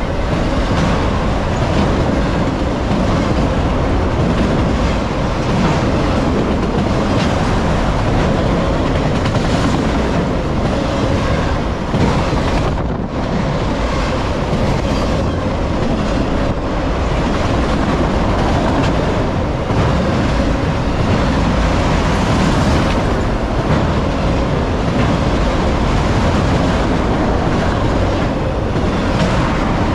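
Freight train of autorack cars rolling past close by, steel wheels running loud and steady on the rails, with a brief dip about 13 seconds in.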